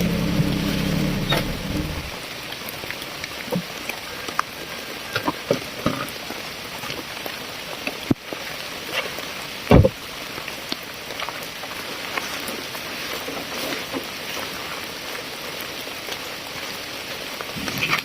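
Rain falling on a hard surface: a steady hiss with many scattered louder drops ticking. A low hum stops about two seconds in, and one louder knock comes near the middle.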